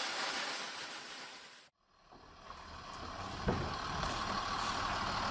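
A steady hiss that fades and cuts off, then after a brief silence a heavy vehicle's engine running steadily, with one sharp knock partway through.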